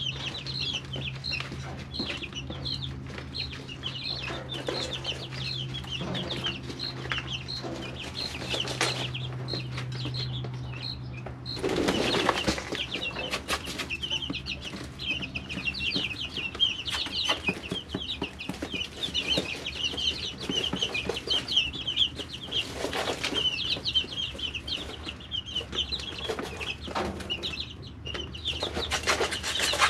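A brood of three-week-old chicks peeping continuously in short, high calls. There are bursts of rustling and flapping about twelve seconds in, again past the middle, and near the end, and a low steady hum stops about a third of the way through.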